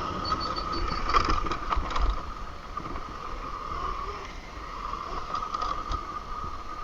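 A 48-volt Razor MX350 electric dirt bike being ridden: its chain-drive motor gives a steady high whine that dips briefly about two-thirds of the way through. Under it is a low rumble, and a cluster of rattles and knocks comes a second or two in.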